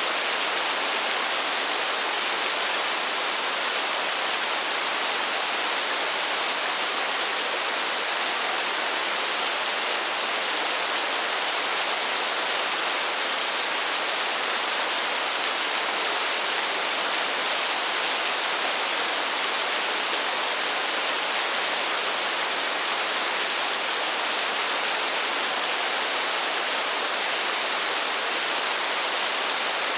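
Steady rain falling, an even hiss with no single drops standing out and no change in level.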